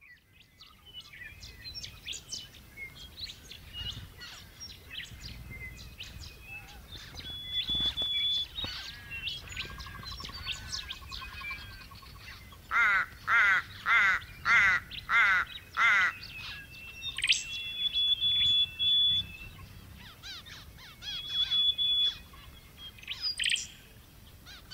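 Several songbirds chirping and whistling. About halfway through one bird gives a loud series of six repeated notes, about two a second.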